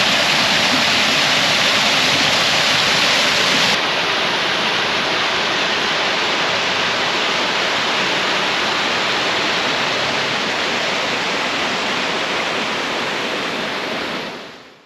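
Steady rushing of falling or flowing water, loud and even. It changes abruptly about four seconds in and fades out near the end.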